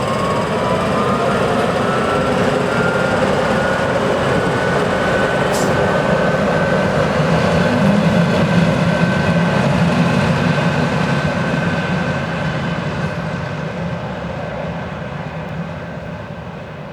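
Electric train passing, its traction motors whining in a rising glide that levels off into a steady high tone over the rumble of wheels on rail. The noise is loudest around the middle and fades near the end.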